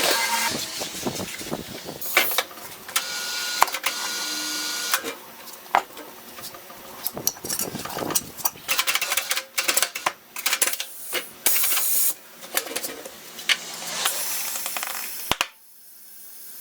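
Tyre-changing work: a run of metallic clicks, knocks and clatter, with several bursts of air hiss, cutting off suddenly near the end.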